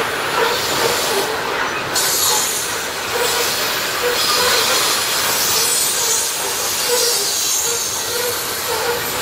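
Coal hopper cars of a freight train rolling past: a steady noise of steel wheels on rail, with a high-pitched hiss that swells and fades.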